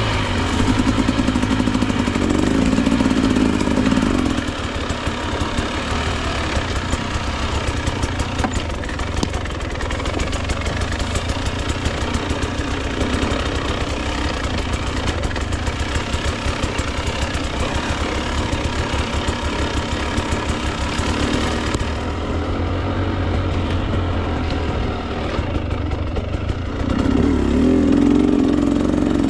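A two-stroke Husqvarna TE 300 enduro dirt bike engine running under load on the trail. It revs up harder for the first few seconds and again near the end, and runs choppily at lower revs in between.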